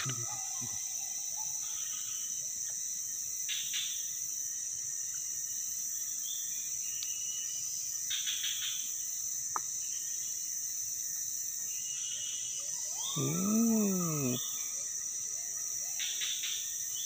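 Steady high drone of insects such as crickets in a swamp forest, with short bird-like chirps every few seconds. About thirteen seconds in comes a single louder pitched call that rises and then falls, lasting about a second.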